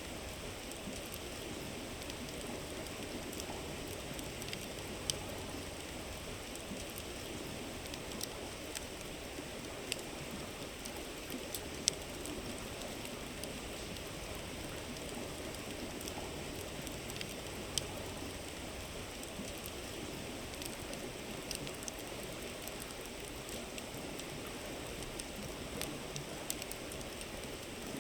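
A river babbling steadily while a wood campfire crackles, with scattered sharp pops.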